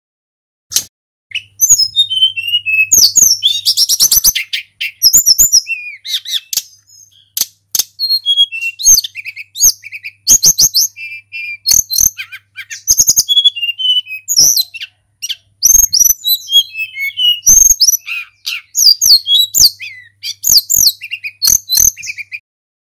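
Tledekan gunung, a blue flycatcher, singing a rapid, varied song of whistled phrases, trills and chattering notes, many sliding down in pitch, with short pauses between phrases. Sharp clicks come in among the notes.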